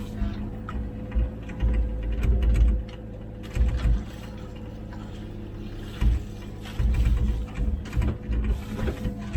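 Komatsu PC16 mini excavator's diesel engine running steadily, with rattling and clanking from the machine at work and repeated low thumps.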